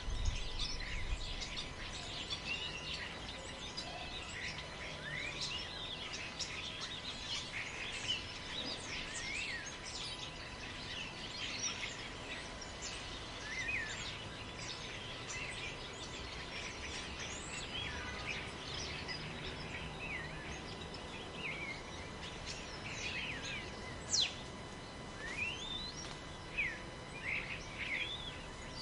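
Many forest birds chirping and calling over one another in a busy chorus, with a low rush of wind in the trees at the start. One sharp, louder call stands out about two-thirds of the way through.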